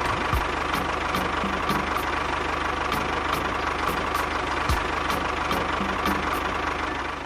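Small engine running steadily with a rapid, even knocking pulse.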